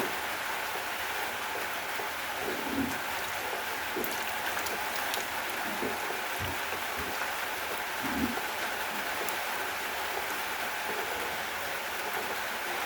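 Steady rainfall, an even hiss, with a few heavier drops landing as short low thuds now and then.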